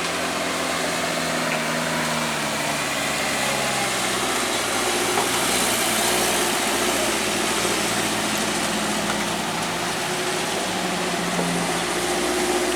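Truck engine running steadily, its pitch shifting slightly a few times, over road noise.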